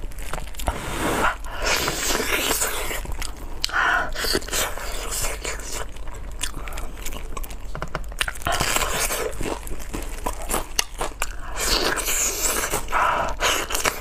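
A person biting and chewing braised pig's trotters, with many small, irregular mouth clicks throughout.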